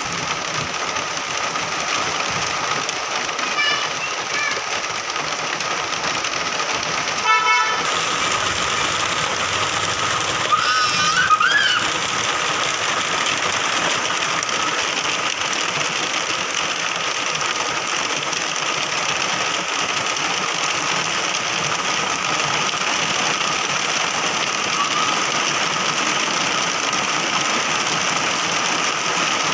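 Steady rain falling, an even hiss throughout. A short pitched toot sounds about seven seconds in, and a brief wavering call about eleven seconds in.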